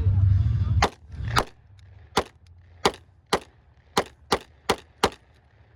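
A semi-automatic pistol fired nine times in quick succession, a shot roughly every half second, from about a second in to just past five seconds. The first second is filled by a loud low rumble.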